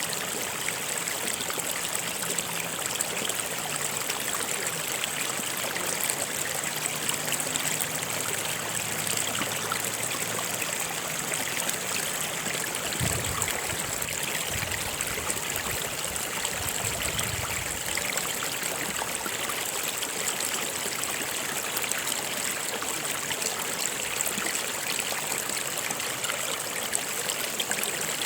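Stream water running steadily over rocks, a continuous rushing and trickling.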